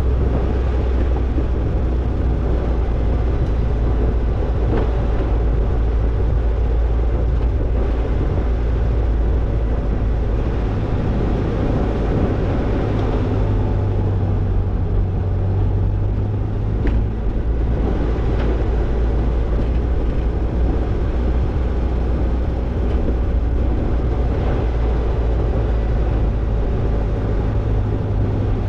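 Toyota Tercel 4WD wagon's four-cylinder engine running steadily under a rough rumble as it drives a dirt off-road trail, its low note shifting slightly about halfway through.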